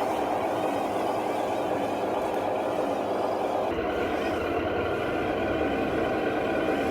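Remote-control 8x8 model truck's drivetrain running steadily, its sound changing and getting fuller in the low end nearly four seconds in.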